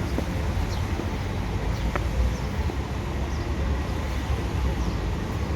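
Steady low outdoor rumble with a few faint, short, high bird chirps over it.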